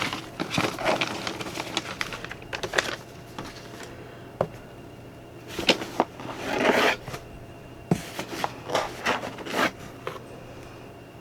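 Paper and packaging rustling and crinkling in several bursts as items are taken out of a box, with a couple of single light clicks in between.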